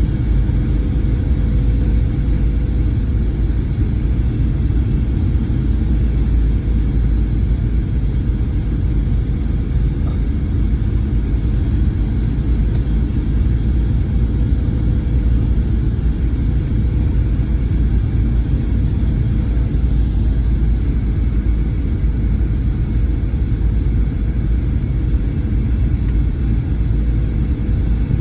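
Steady cabin rumble inside a Boeing 737-900ER: the CFM56-7B engines and airflow giving a deep, even roar with a thin steady hum and a faint high whine on top.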